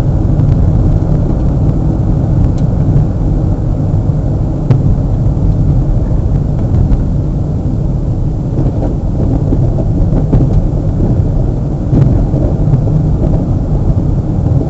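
Steady low rumble of a car driving along a road, road and engine noise heard from inside the cabin, with a few faint ticks.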